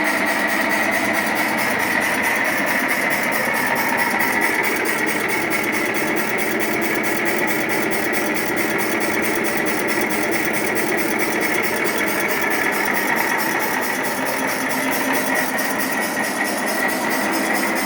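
Feed pellet mill running steadily: a continuous machine drone with a constant high whine.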